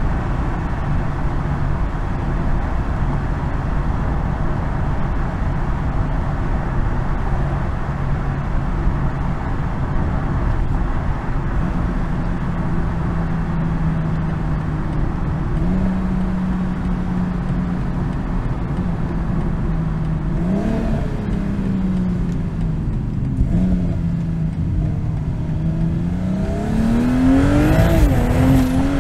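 BMW M240i's 3.0-litre B58 inline-six cruising steadily under heavy tyre and road noise, its note stepping up a little now and then. About three seconds before the end it revs up under acceleration, the loudest part, then the pitch falls back.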